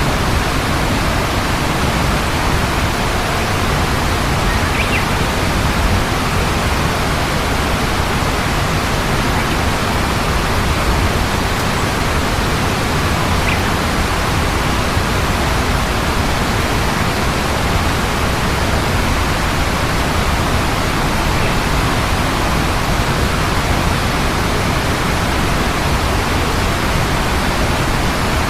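Steady, loud rushing noise, even in level throughout, with a few faint short high chirps spaced several seconds apart.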